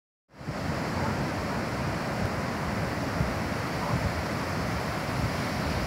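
Pacific Ocean surf washing steadily on a beach, with wind rumbling on the microphone.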